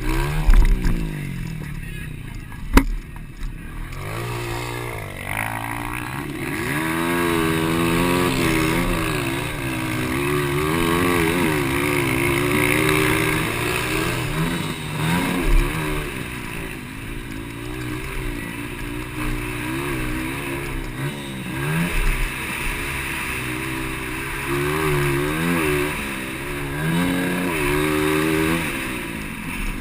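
200cc motocross bike engines revving, their pitch climbing and dropping over and over with throttle and gear changes. A sharp click sounds about three seconds in.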